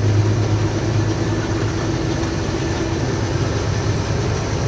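A lorry's diesel engine running steadily as the truck drives along, a constant low drone.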